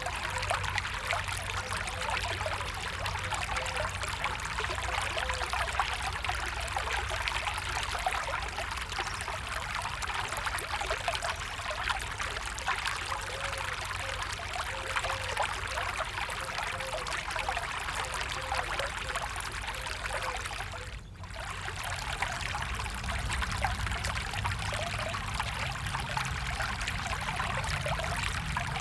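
Stream water running and trickling steadily, with small gurgling tones; the sound dips briefly about 21 seconds in.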